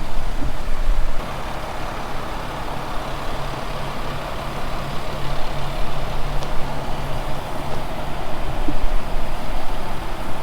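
An engine running steadily with a low hum, over a deep rumble that is louder in the first second.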